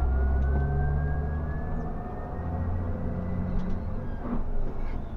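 Scania K360 bus running on the road: a strong, steady low engine sound with a thin whine that rises slowly in pitch.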